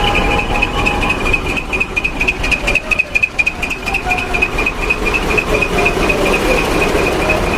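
Large trucks' diesel engines running at low revs, a steady rumble, under a rapid, continuous high-pitched pulsing chirp.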